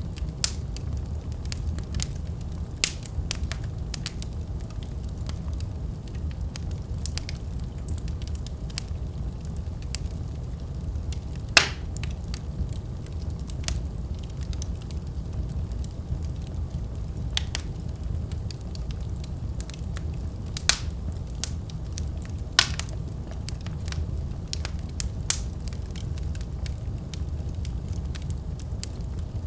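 Fire burning in a fireplace: a steady low rumble of flames with scattered crackles and sharp pops, the loudest pop about twelve seconds in.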